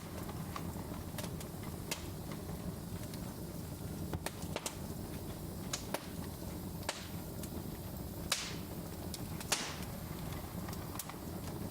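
Wood fire crackling in a fireplace: a steady low rumble of flames under scattered sharp pops and snaps, with two louder pops a little past the middle.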